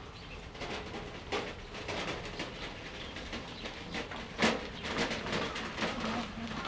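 Birds calling, with a few irregular sharp knocks; the loudest knock comes about four and a half seconds in.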